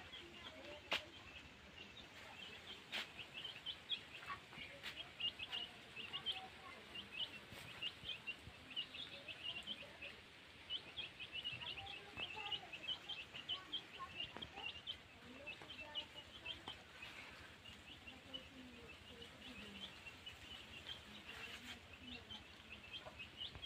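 Birds chirping: a fast, unbroken string of short, high chirps, with a few faint clicks in the first few seconds.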